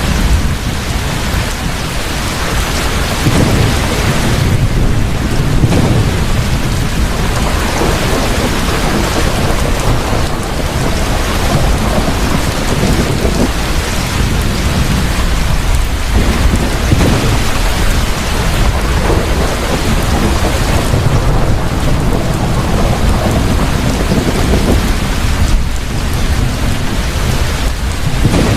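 Heavy rain falling steadily, with thunder rumbling low in waves every few seconds.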